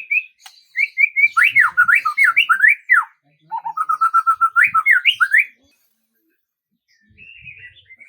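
A songbird singing two loud phrases of quick, sweeping whistled notes, the second starting lower and climbing. After a brief pause a softer twitter comes near the end.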